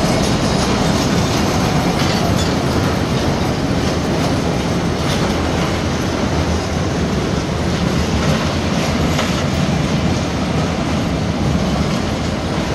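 Container wagons of a long freight train rolling past close by: a steady, loud rumble and rush of steel wheels on rail, with scattered clicks of wheels passing over rail joints.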